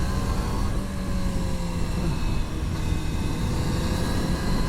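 Kawasaki Ninja motorcycle engine under way, heard through a helmet mic with heavy wind rush. The engine note eases down slowly through most of the stretch and begins to climb again near the end.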